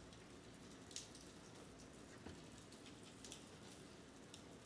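Faint rain falling on pavement: a steady soft hiss with scattered drip taps, the clearest about a second in.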